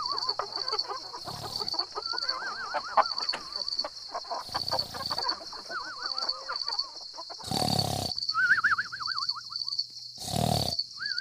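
Animal calls: several falling, quavering calls, over a steady, rapidly pulsing high-pitched chirping, broken by three short loud noisy bursts.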